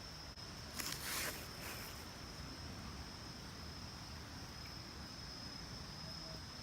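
Insects, crickets or similar, trilling steadily in one continuous high tone, with a brief louder burst of noise about a second in.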